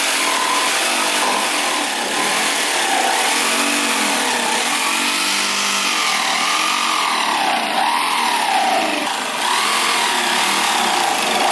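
A power saw cutting through metal exhaust pipe, its motor pitch dipping and recovering again and again as the blade loads up in the cut, over a steady hiss of cutting.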